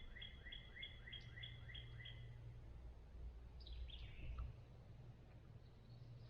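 A songbird singing a fast series of repeated two-note phrases, about three a second, that stops about two seconds in, followed by a few short chirps around four seconds in, over a faint low rumble.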